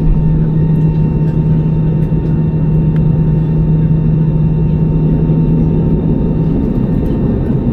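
Steady cabin noise inside an Airbus A320-200 on the ground after landing: an even hum with a low droning tone that wavers about six and a half seconds in.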